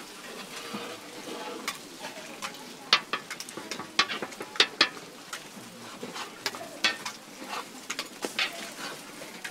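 Okonomiyaki sizzling on a hot griddle, with a run of sharp metal clicks and scrapes from cooking utensils, loudest in the middle.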